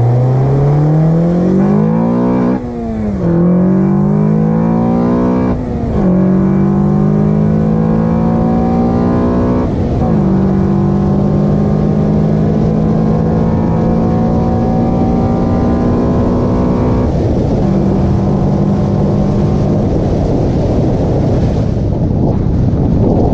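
Car engine breathing through an Acuity cold air intake, accelerating with its pitch rising. It shifts up three times, the pitch dropping sharply at each shift, then holds a steady pitch while cruising. Near the end the engine tone gives way to steady road and wind noise.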